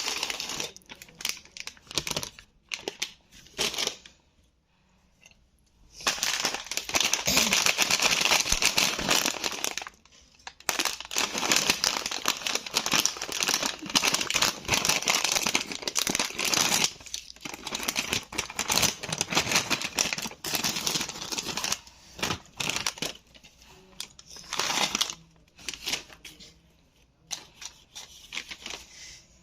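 Plastic snack packet of Bingo Mad Angles chips crinkling as it is handled, in long bursts of crackle with short pauses between them.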